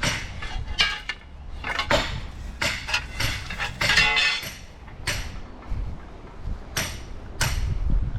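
Hammer strikes while the formwork for a concrete footpath is boxed up: sharp, irregular blows, about eight of them, some with a short metallic ring.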